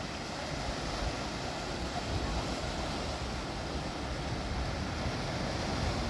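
Steady rush of ocean surf and coastal wind, an even noise with a shifting low rumble.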